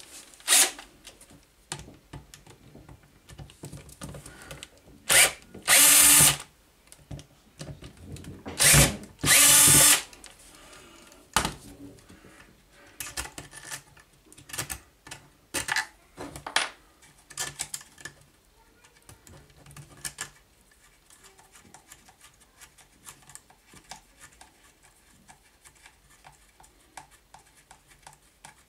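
Power drill run in two short bursts, about five and nine seconds in, with smaller clicks and knocks of parts and tools being handled in between.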